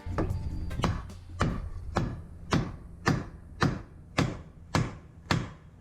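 Hammer striking a punch to drive out the wedge that holds the propeller on its shaft: about ten steady metallic blows, roughly two a second, each with a short ring.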